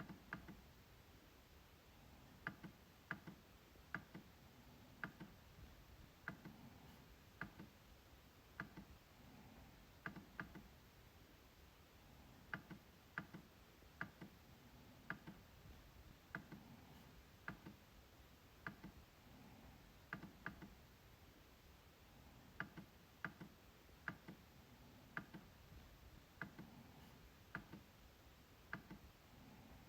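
MacBook trackpad being clicked again and again: sharp, short clicks, often in quick pairs, about one to two a second at uneven spacing.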